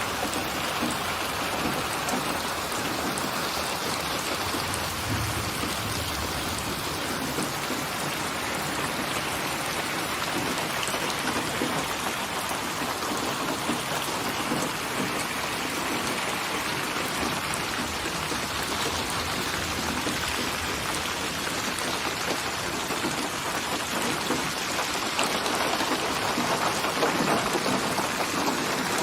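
Steady rain falling, a continuous hiss of many drops, swelling slightly louder near the end.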